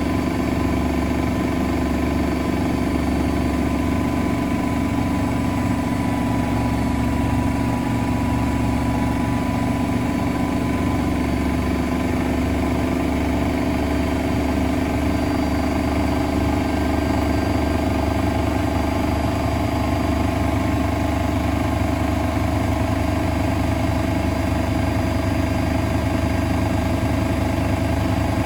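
Miele Novotronic W921 washing machine running, its motor giving a steady whine of several fixed tones over a low rumble.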